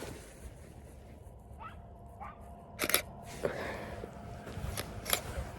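Canon Rebel T7 DSLR shutter firing, one sharp click about three seconds in and lighter clicks later, over a faint low rumble. Two faint short rising squeaks come shortly before the main click.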